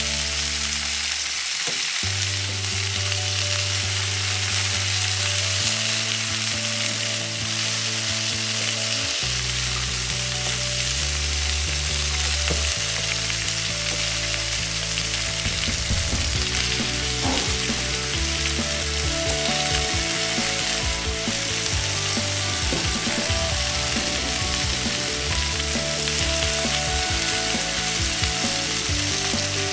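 T-bone steaks sizzling steadily on a ridged grill pan, with potatoes being mashed and stirred with a fork in a metal saucepan.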